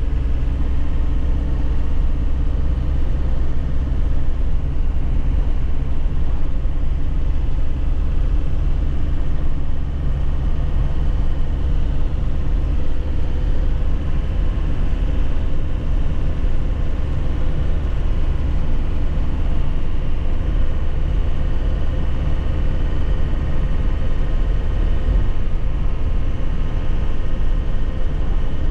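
2001 Nissan Cabstar light truck engine running steadily while driving, mixed with road noise; its low note drops away about halfway through.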